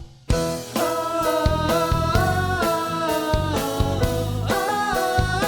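Live pop-rock band music with a voice singing held notes over guitar, bass and drum kit; the sound drops out briefly just after the start, then the full band comes in on a steady beat.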